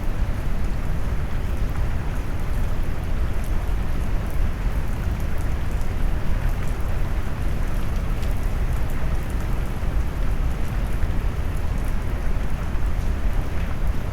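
Steady rain mixed with deep brown noise: an even, low, rumbling hiss with faint scattered drop ticks on top and no breaks or changes.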